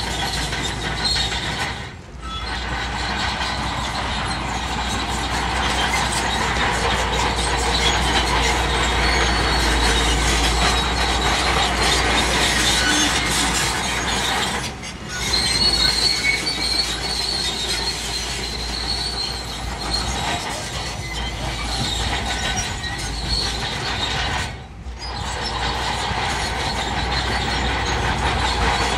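Bulldozer at work: diesel engine running under load, with its steel crawler tracks squealing and clanking. The sound dips sharply three times.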